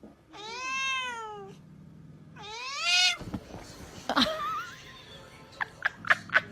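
A cat meowing twice, two long drawn-out meows, each rising and falling in pitch. A short, fainter call follows about four seconds in, and a few light clicks come near the end.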